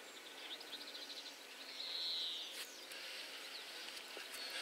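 A small bird singing faintly: a quick run of short high chirps, then a longer falling trill. Under it, soft rustling as carrots are pulled by hand from the soil, with one sharp snap about two and a half seconds in.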